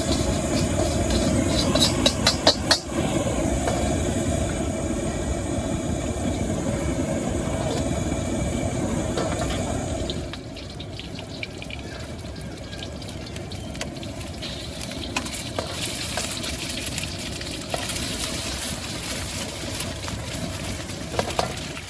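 Wok cooking: a steady rush of burner and frying noise with a few sharp metal clanks about two to three seconds in. The noise drops off about ten seconds in, leaving quieter sizzling and light clinks.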